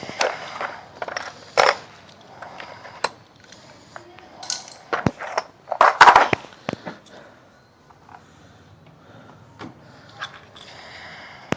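Metal hand tools clinking and clattering as they are handled and set down: a scatter of sharp clinks, loudest in a cluster about six seconds in.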